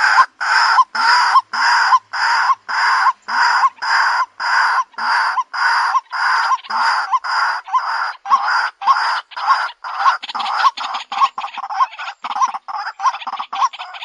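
White-breasted waterhen calling a loud, harsh note over and over, about twice a second, speeding up into quicker, choppier notes over the last few seconds. It is the bird's monotonous repeated call, as used to lure it.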